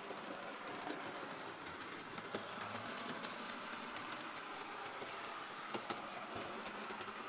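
HO scale model train, a Bachmann Toby locomotive pulling two coaches, running along the track: a steady, faint electric motor and gear whir with scattered clicks from the wheels on the rails.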